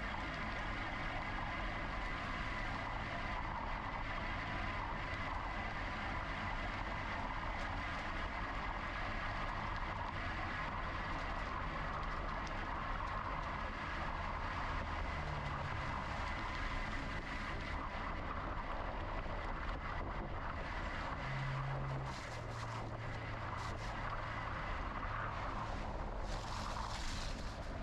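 Steady wind and rolling noise of a moving GoCycle GX electric bike, with a thin high hum over it.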